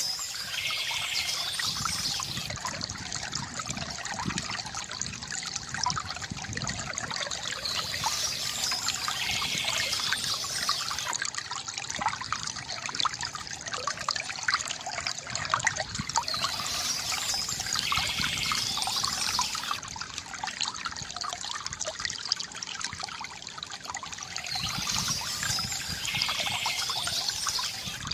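Water from a bamboo fountain trickling and splashing steadily into a basin. A brief high bird call comes back about every eight seconds.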